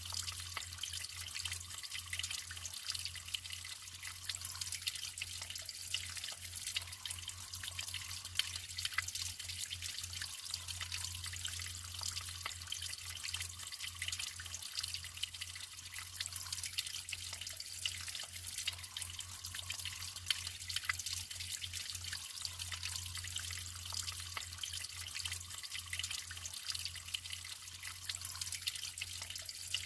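Natural running water trickling and splashing steadily, with many small drips and splashes.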